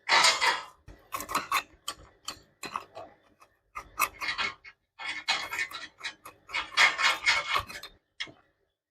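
Rubbing and scraping strokes on a hard part, coming in irregular bursts with short pauses. The longest runs are near the start and around the seventh second.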